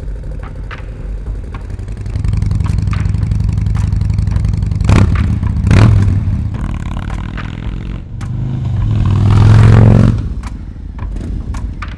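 Harley-Davidson Low Rider S V-twin engine running through a Dr. Jekill & Mr. Hyde Shorty exhaust. It gets louder about two seconds in, is blipped twice around five and six seconds, then revs up and back down near the end, with scattered sharp clicks.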